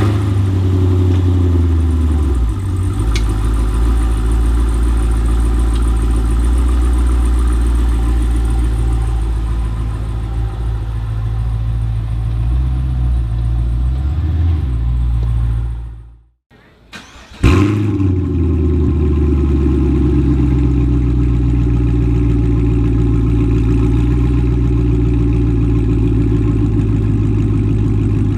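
Chevrolet Camaro with an aftermarket catback exhaust (catalytic converters kept) idling with a deep, steady exhaust note. About 16 seconds in the engine dies away to silence, then about a second later it starts again with a brief flare and settles back to idle.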